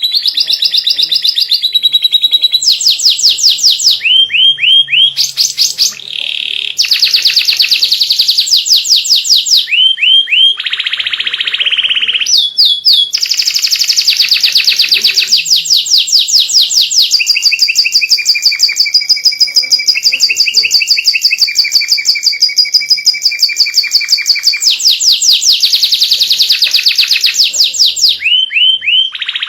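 White domestic canary singing non-stop: a long song of fast trills, each a rapid run of repeated high notes, switching from one trill to the next with hardly a break.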